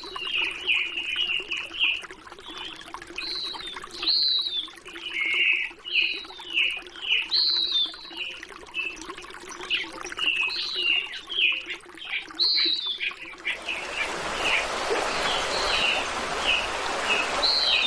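Birds calling in quick, repeated short chirps and whistled notes over running water. About three-quarters of the way through, a louder steady rush of water comes in under the birdsong.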